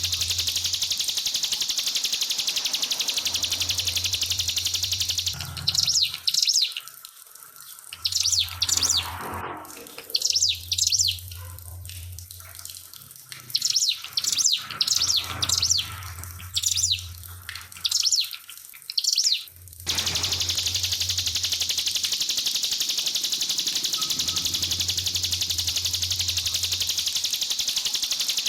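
Trickling water as a steady hiss, which stops about five seconds in and gives way to a ciblek pinus (a prinia) singing. Its rapid-fire 'nembak' song comes as short bursts of high chirping notes for about fifteen seconds, and then the trickling water returns.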